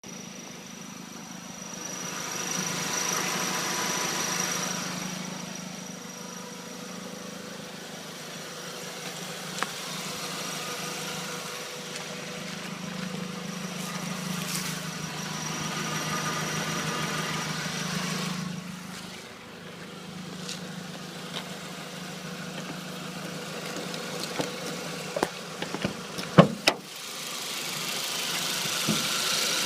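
Audi A4 (B6) engine, turbocharged with a Garrett GT2871R, idling with a bird-like chirping noise from the engine bay. A few sharp knocks come near the end.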